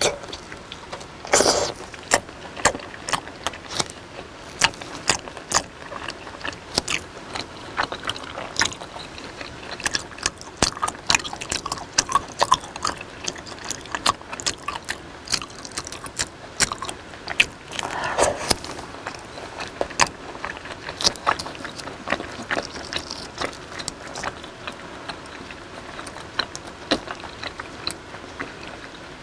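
Chewing raw beef slices dipped in chili sauce: a steady run of sharp smacking and clicking mouth noises, with a couple of louder ones about a second and a half in and about two-thirds of the way through.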